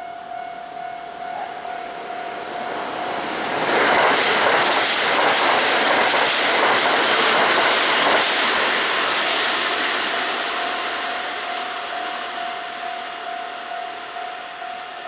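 Kintetsu red-and-white electric commuter train running past on the line: it grows loud about three and a half seconds in, with a rapid clatter of wheels over the rails for about five seconds, then fades away as it leaves.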